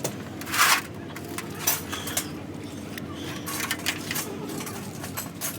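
Metal tools and engine parts clinking and knocking during engine repair work, with a short, loud hissing or scraping burst about half a second in.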